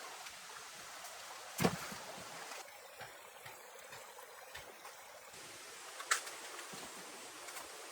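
Steady hiss of running water or rain, with two sharp knocks, one about a second and a half in and another about six seconds in.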